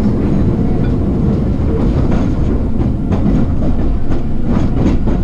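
Hankyu electric train running on the line, heard from inside the car: a steady loud rumble of wheels on rail, with repeated clickety-clack as the wheels pass over rail joints in the second half.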